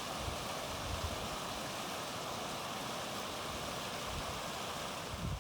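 Steady wind rushing across open snow, an even hiss with no distinct events.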